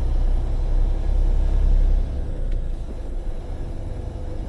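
Freightliner semi-truck's engine and road noise heard from inside the cab while driving, a steady low rumble that drops in level about two seconds in.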